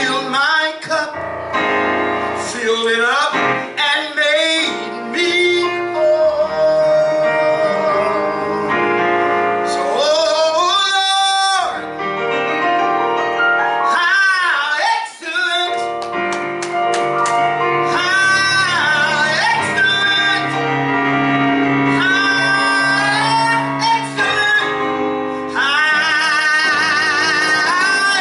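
A gospel song: a solo voice sings long, held notes with vibrato over piano accompaniment.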